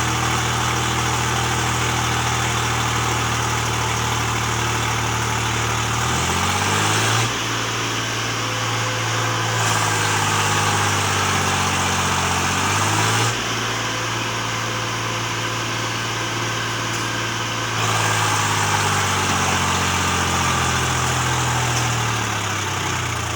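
Swaraj 735 FE tractor's three-cylinder diesel engine running steadily, its speed rising about a quarter of the way in and easing back down near the end.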